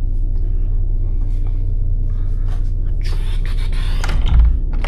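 Steady low hum of the liveaboard boat's machinery below decks. A scraping rustle comes about three seconds in, and a low thump follows near the end.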